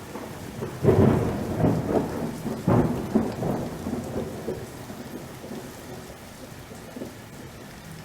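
Thunder rumbling over steady rain, with loud peaks about one and three seconds in, then dying away.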